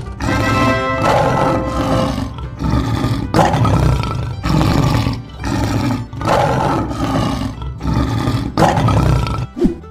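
A lion roaring again and again: long roars with short gaps between them, stopping shortly before the end.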